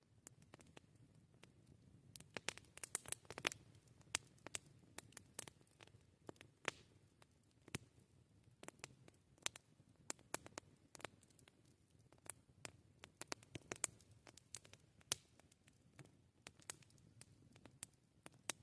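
Wood campfire crackling: irregular sharp pops and snaps over a faint low rumble, with a quick flurry of pops about three seconds in and the loudest single snap a few seconds before the end.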